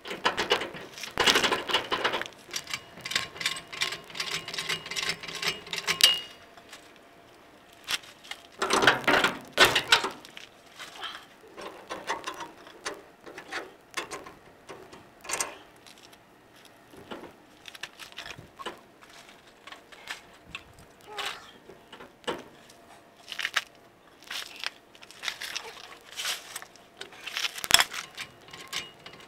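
Hand tools working on steel truck suspension hardware: irregular metallic clanks and clinks, with bursts of rapid clicking near the start, around the middle and near the end.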